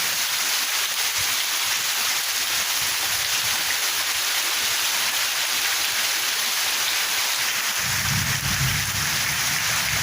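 Heavy rain falling steadily, a dense hiss of drops; a low rumble comes in about eight seconds in and continues.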